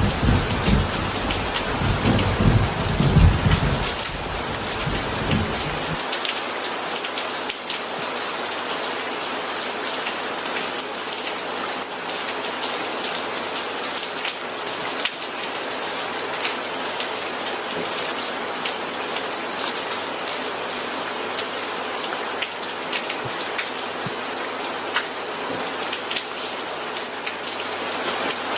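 Steady heavy rain, a dense even hiss with many individual drops pattering on a surface. A low rumble of thunder sounds for the first several seconds, then cuts off about six seconds in.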